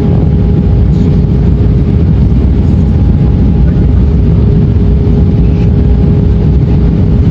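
Airliner cabin noise: a loud, steady engine and airflow roar with a constant hum running through it.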